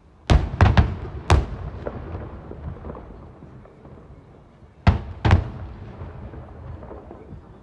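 Aerial fireworks shells bursting: a quick cluster of four bangs within the first second and a half, then two more about five seconds in, each trailing off in a low rolling rumble.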